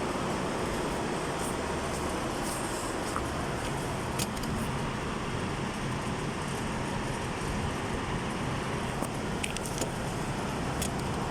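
Steady rushing background noise, with a few faint light clicks about four seconds in and again near the end.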